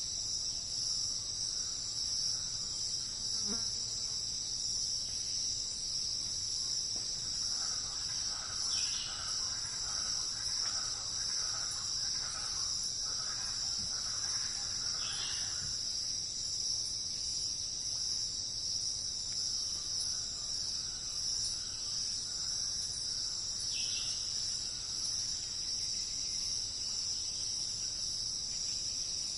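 Steady, high-pitched chorus of crickets or similar insects, with three brief downward-sliding bird calls and, in the first half, a run of soft repeated bird notes lower down.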